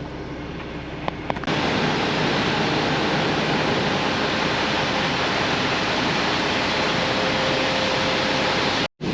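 A steady, even rushing hiss that starts abruptly about a second and a half in, after two light clicks, and cuts off just before the end.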